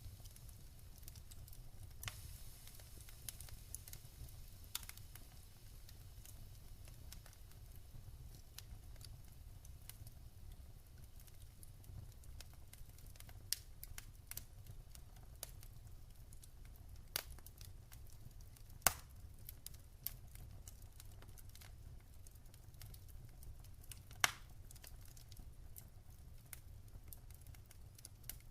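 Wood fire crackling, with scattered sharp pops, the loudest about 19 and 24 seconds in, over a steady low rumble.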